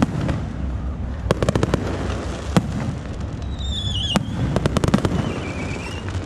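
Aerial fireworks shells bursting overhead: clusters of sharp bangs and crackles over a continuous low rumble. A high wavering whistle comes in a little past the middle.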